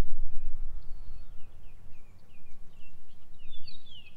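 A songbird singing a run of short, falling chirps that come quicker toward the end, over a steady low rumble.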